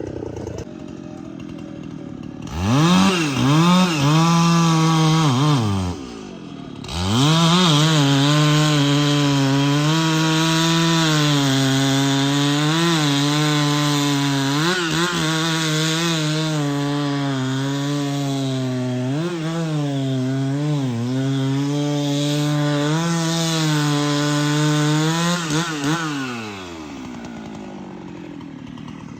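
Chainsaw revving up to full throttle and cutting through a tree. It eases off briefly after a few seconds, then runs high and steady for most of the time, its pitch dipping now and then, before winding back down to idle near the end.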